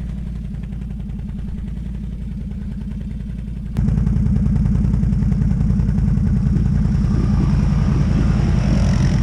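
ATV engine running while riding, a steady low rumble that suddenly gets louder almost four seconds in.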